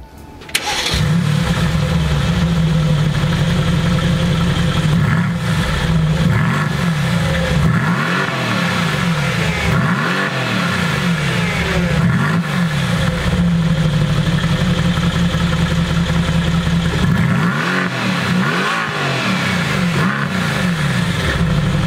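2018 Mercedes-AMG GT S's M178 4.0-litre twin-turbocharged V8, heard at the exhaust tips, idling steadily and then revved in a series of quick throttle blips, each rising and falling in pitch. Several blips come in the middle and a couple more near the end.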